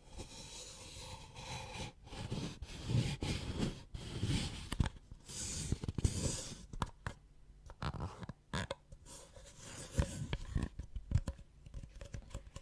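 Close-miked ASMR trigger sounds: irregular scratching and rustling with low thuds, then a run of sharp taps and clicks in the second half.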